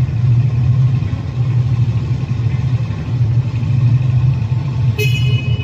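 Triumph Scrambler 400 X's 398cc single-cylinder engine running steadily, a deep, even exhaust rumble. About five seconds in, a brief sharp ringing click sounds over it.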